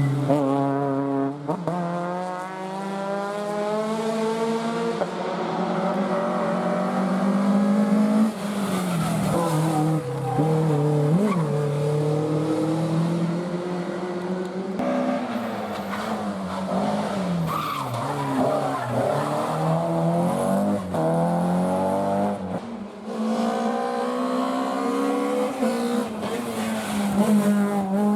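Rally car engine revving hard and rising through the gears, with the pitch dropping and breaking at each lift-off and gear change every few seconds. Tyres skid as the car slides through the corners.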